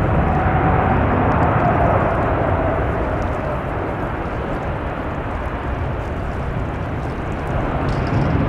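Airbus A380 jet engines running with a dense rumble and roar. A whine falls slightly in pitch and fades over the first couple of seconds, and the noise eases off through the middle.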